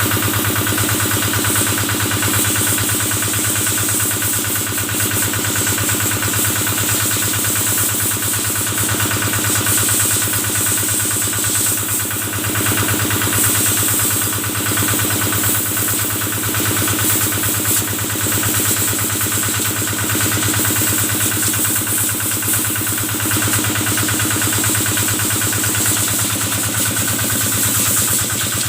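Kubota single-cylinder diesel engine running steadily, driving the pump of a cattle-washing sprayer, with a constant high hiss over the engine's even chugging.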